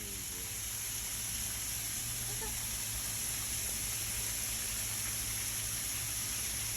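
Steady hiss of heavy rain, with faint voices briefly at the start.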